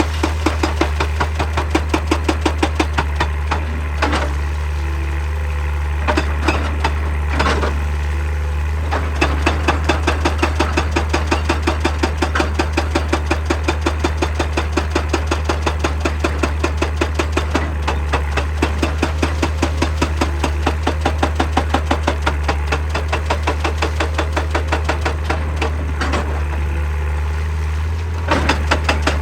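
Excavator-mounted hydraulic breaker hammering rock in rapid, even blows, several a second, over the steady drone of the excavator's diesel engine. The hammering stops briefly a few times, leaving the engine running.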